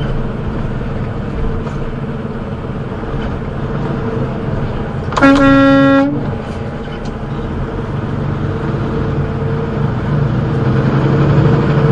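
Steady road noise of a moving vehicle, with one vehicle horn blast of about a second, held at a single steady pitch, about five seconds in.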